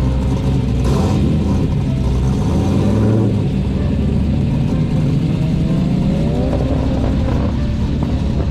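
Car engine accelerating hard, a steady low rumble with its pitch climbing in rising sweeps near the end. A short sharp burst of noise comes about a second in.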